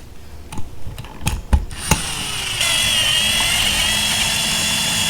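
A few handling clicks and knocks, then from about two seconds in a power drill runs steadily with a high whine for about three seconds, driving in a small screw.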